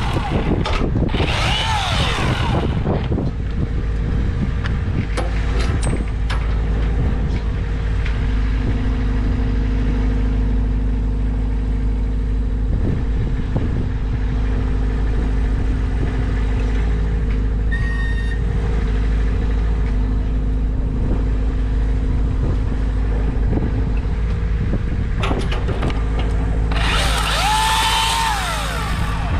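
A heavy engine running steadily at a constant speed, with two loud, high-pitched bursts of machine noise with rising and falling pitch, one at the start and one near the end.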